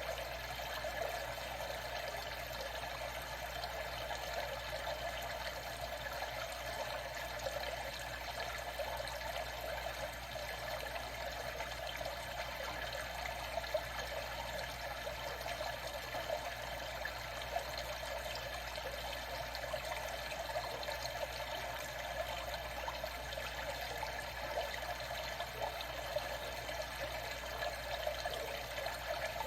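Water trickling and splashing steadily, with small splashes standing out now and then.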